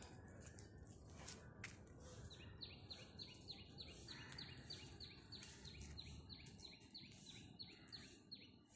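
A bird calling: a long run of short, high chirps, about three a second, starting a couple of seconds in, over faint background hiss.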